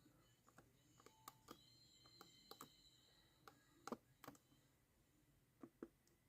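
Near silence with scattered faint clicks and taps from small metal model-roof shingles being handled and pressed into place, the clearest about four seconds in.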